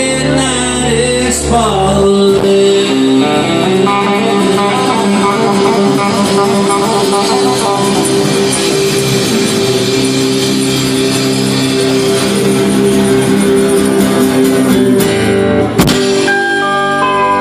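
Live folk-rock band playing an instrumental passage led by guitars, with sustained chords and dense strumming. A sharp click sounds near the end.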